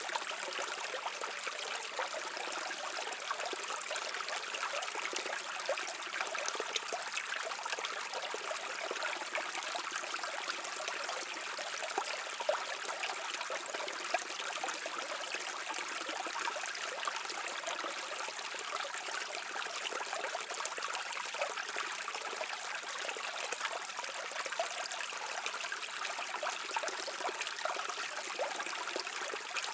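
Brook water flowing and trickling over rocks: a steady, even babble with small splashes throughout.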